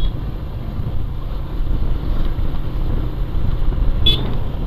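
Motorcycle engine running under way with wind and road rumble on a helmet-mounted microphone. A short high beep comes about four seconds in.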